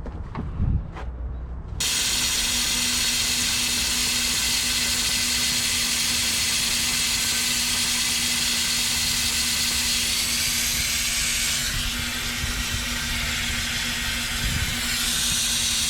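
Compressed air hissing out of a semi truck's air tank drain valve as the tank is drained, starting suddenly about two seconds in and running steadily, with a faint steady hum under it.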